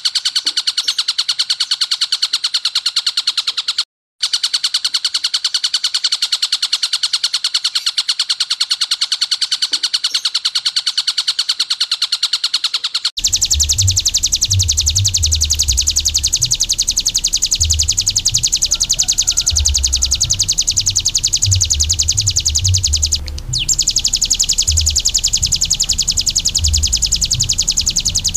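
Kapas tembak song: a long, rough, machine-gun-fast rattling trill that runs on without pause. About halfway through it shifts to a higher trill over a low rumbling background.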